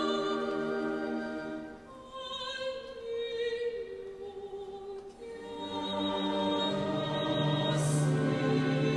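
Choir singing sustained chords with vibrato. About two seconds in the texture thins to higher voices alone, and the full choir, low voices included, comes back in around five to six seconds in.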